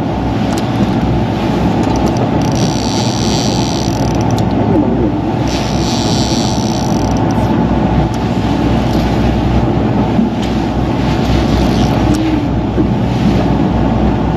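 Steady rumble of a fishing boat's engine and hull at sea. Two stretches of a higher buzzing, each about two seconds long, come about two and a half and six seconds in.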